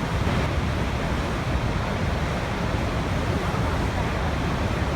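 Waterfall: water falling and rushing in a steady, even, deep-toned roar that does not change.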